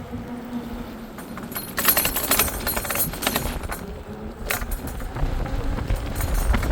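Metallic rattling and jangling, a dense clatter of small clicks starting about two seconds in and lasting about a second and a half, with a few more clicks later. Low wind rumble on the microphone builds near the end.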